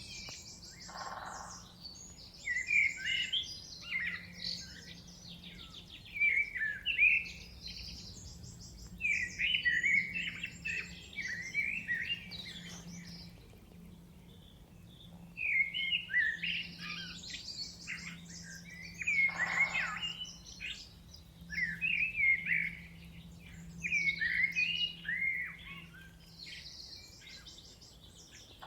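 Chorus of several songbirds singing short, varied, fluttering phrases in bouts with brief pauses. Two lower falling calls come about a second in and again near the twenty-second mark, over a faint steady low hum.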